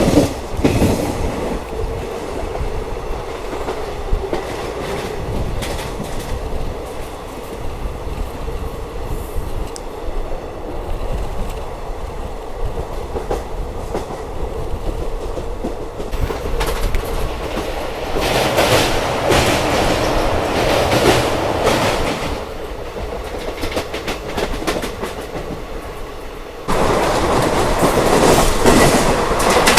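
Passenger express train running on the rails, heard from on board, with the wheels clicking over rail joints. Near the end the sound gets abruptly louder and brighter.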